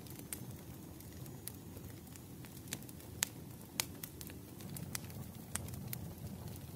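Wood fire crackling in a fireplace: a steady low rumble with sharp pops and snaps at irregular intervals, about two a second, the loudest about three and four seconds in.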